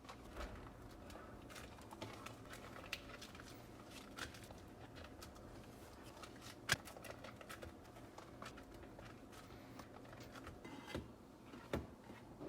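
A beeswax wrap being handled, crinkling and rustling with many small crackles and clicks, and one sharper tap about seven seconds in.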